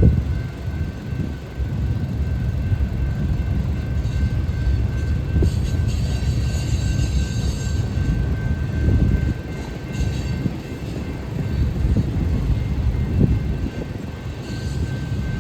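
Freight train rolling past, a steady low rumble with a thin, steady high tone above it.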